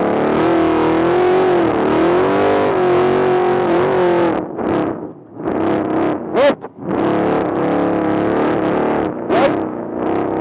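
Off-road trophy truck's engine running hard at high revs, its pitch wavering up and down. Around the middle it drops off sharply twice, with quick rising revs.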